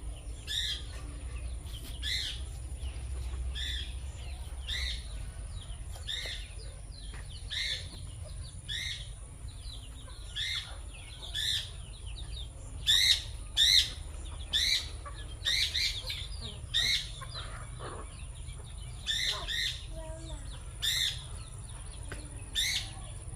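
A bird calling over and over, short sharp calls about once a second, some of them in quick pairs, over a steady low rumble.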